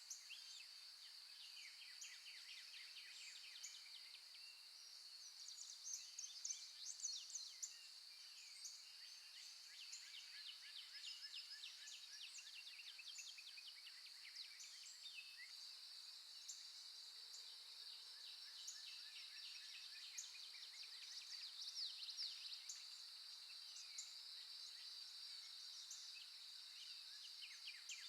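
Faint wild birdsong: repeated quick chirps and trills, a little louder about a quarter of the way in and again about three quarters of the way in, over a steady high-pitched drone.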